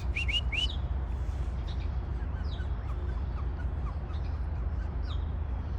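Small birds chirping: three quick rising chirps at the start, then faint, scattered short chirps over a steady low street rumble.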